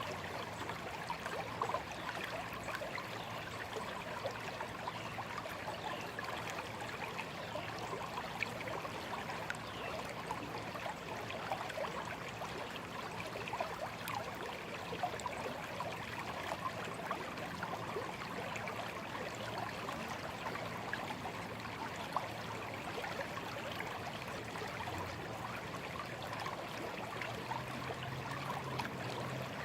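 A small, shallow stream babbling and trickling steadily over stones.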